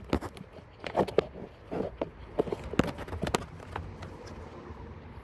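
Handling noise: a string of irregular knocks and clicks, most in the first three and a half seconds, then only a quiet background.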